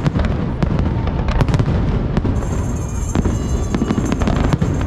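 Fireworks going off: a continuous low rumble of bursts with many sharp pops and crackles throughout.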